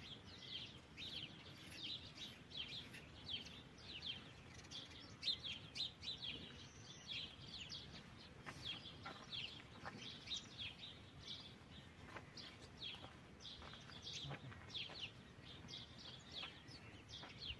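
Faint chorus of small birds chirping, many short high chirps a second.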